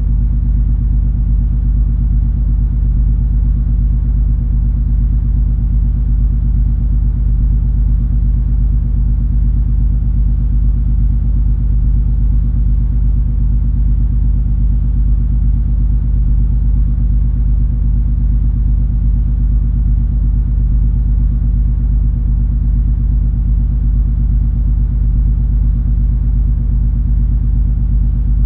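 Steady low rumble and hum of the cruise ferry MS Color Fantasy's engines and hull, heard aboard while the ship is under way. It stays even throughout.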